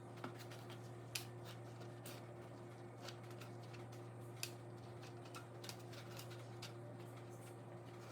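Crusty bread crackling and tearing in faint, irregular small crackles as its soft inside is pulled out to hollow the loaf, over a steady low hum.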